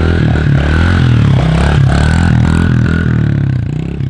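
2021 Honda CRF110 pit bike's small fuel-injected four-stroke single being revved, its pitch rising and falling with several quick throttle blips.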